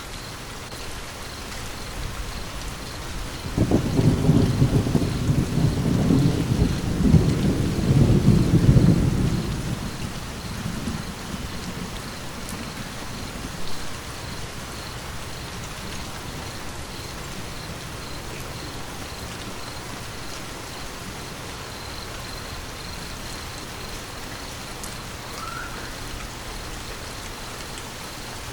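Steady rain falling, with a thunder rumble breaking in about three and a half seconds in, rolling for several seconds and dying away. The rain continues evenly afterwards.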